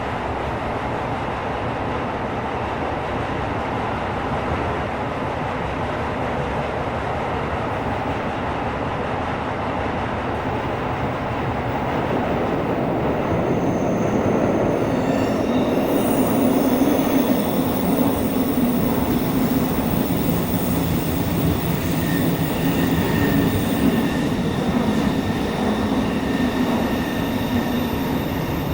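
Tokyo Metro 17000 series subway train running in a tunnel, heard from inside the car: a steady rumble of wheels on rail that grows a little louder about halfway through. Soon after, a high-pitched wheel squeal joins in and holds for the rest of the stretch.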